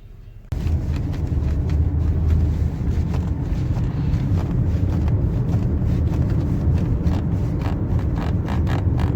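Skoda Kodiaq on the move, heard from inside the cabin: a steady low road and engine rumble that starts abruptly about half a second in, with many small clicks and rattles over it.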